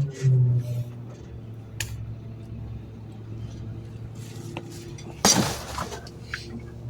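Garbage truck engine running at a steady low idle, with scattered clinks and knocks of trash in the hopper and a loud crash of falling trash about five seconds in.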